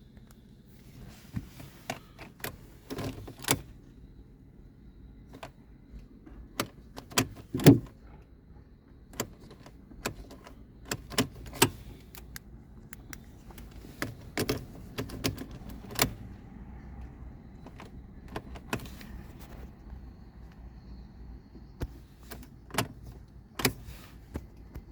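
Irregular sharp clicks and knocks, a few to several seconds apart, over a low steady hum; the loudest knock comes about a third of the way through.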